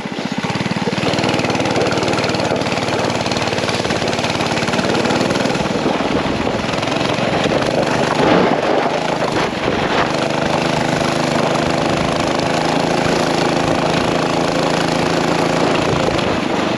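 A mini bike's small engine running steadily while towing a sled, with a brief rev about halfway through.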